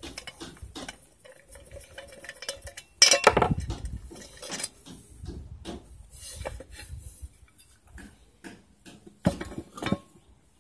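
Metal clinks, taps and knocks from tools and parts being handled while an old welder is taken apart, with a louder clatter about three seconds in and another near the end.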